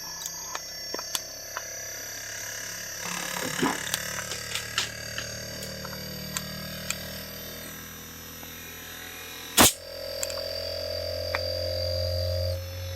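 Steady hum of an inverter AC outdoor unit running, its compressor and fan motor on after the overcurrent fault was cleared. Scattered small clicks and knocks of handling sound over it, with one loud sharp click about ten seconds in, after which the hum is louder.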